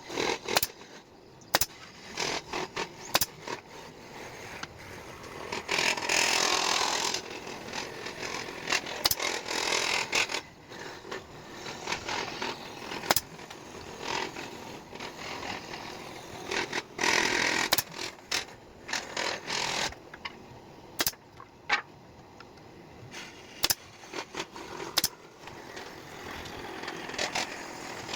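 Hand assembly of a wooden bird cage: many sharp taps and knocks, with a few longer stretches of scraping or rubbing.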